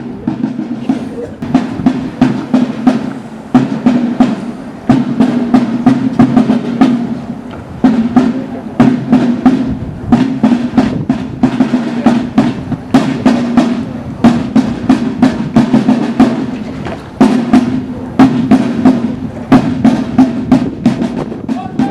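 Snare and bass drums beating a fast marching rhythm, with drum rolls.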